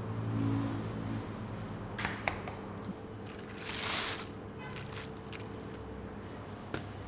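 Handling and working sounds over a steady low hum: two sharp clicks about two seconds in, a short rush of noise around four seconds, and a small click near the end.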